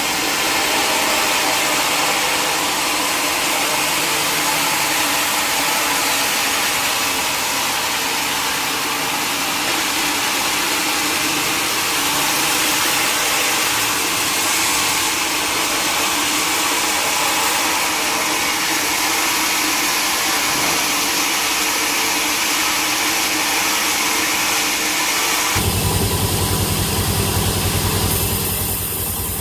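Sawmill machinery running steadily and loudly, a dense noisy hum with several steady tones. About 26 seconds in it switches abruptly to a lower, pulsing engine sound.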